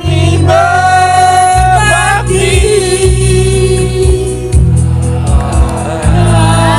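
A woman singing long held notes that glide between pitches, over recorded backing music with a steady bass line.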